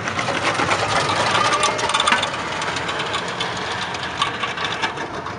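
Engine and exhaust of a lowered hatchback driving past close by and pulling away, loudest about two seconds in, with many short clicks over the running engine.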